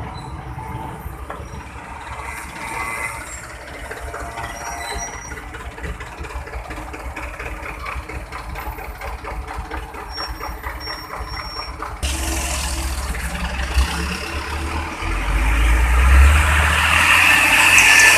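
Heavy truck traffic at a road junction: steady engine and tyre noise with a few faint high beeps, then from about twelve seconds in a much louder truck engine close by, swelling further as it pulls past near the end.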